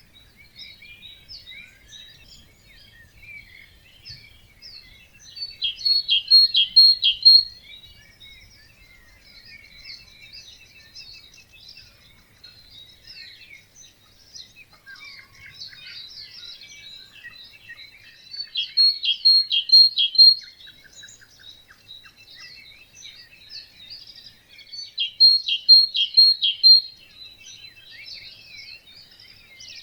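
Many birds singing together in an early-morning chorus, a steady tangle of short high chirps and trills. One louder bird repeats the same phrase of about five quick ringing notes three times, roughly every six to seven seconds.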